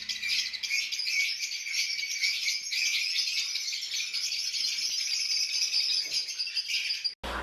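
Many small birds chirping and chattering in a continuous dense high twitter, cut off suddenly shortly before the end.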